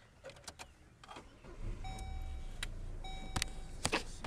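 A car being started: a few clicks, then a low engine rumble coming up about a second and a half in, while the car's warning chime sounds in repeated steady tones.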